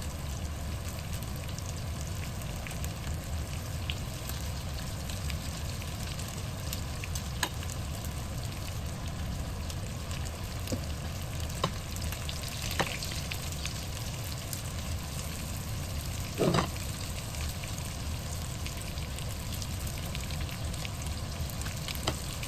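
Breaded chicken nuggets shallow-frying in hot oil in a nonstick frying pan: a steady sizzle, broken by a few sharp clicks and one brief louder burst about two-thirds of the way through.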